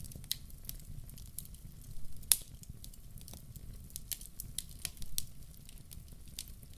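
Log fire crackling: irregular sharp pops and snaps over a steady low rumble, with one loud pop a little over two seconds in.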